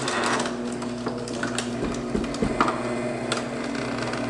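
A small electric appliance motor running with a steady hum, with scattered clicks and clatter as the Vista disc is fed into it.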